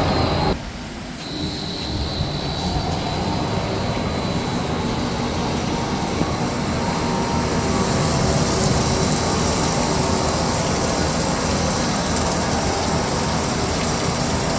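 A CNC turning lathe runs steadily, with a thin high whine over the machine noise. The sound drops suddenly to a quieter level about half a second in, then builds back up and holds steady.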